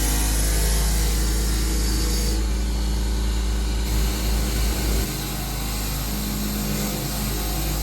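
A motor running steadily with a low hum, its sound changing abruptly about two and a half seconds in and again about five seconds in.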